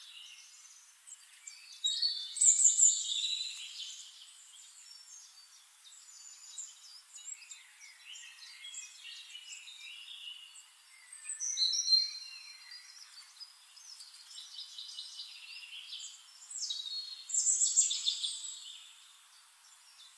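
Birds chirping and singing, with louder bouts of song about two seconds in, near the middle and near the end.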